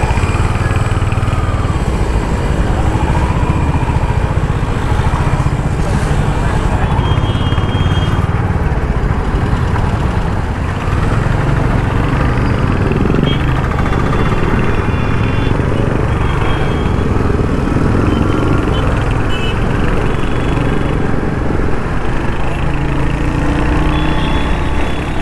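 Royal Enfield Hunter 350's 350cc single-cylinder engine and exhaust running steadily while the motorcycle is ridden through city traffic.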